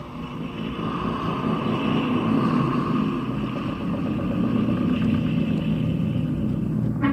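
Boat motor running steadily while under way, growing louder over the first couple of seconds.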